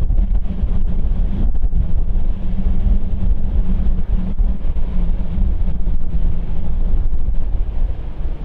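Wind buffeting the microphone, with a steady low rumble and hum underneath.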